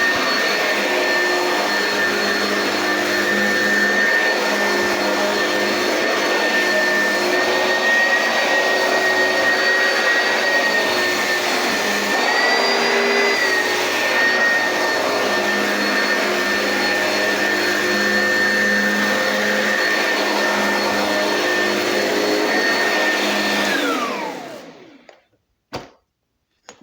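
Oreck XL commercial upright vacuum cleaner running on carpet with a steady motor whine. The whine briefly rises in pitch about halfway through. Near the end the motor is switched off and winds down with a falling whine, followed by a click.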